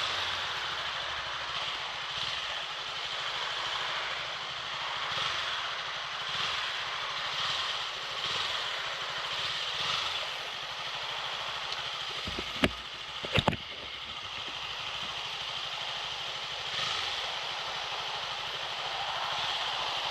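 KTM 200 Duke's single-cylinder engine running on the move, under a steady rush of wind and road noise on the microphone. Two sharp knocks a little past halfway, less than a second apart.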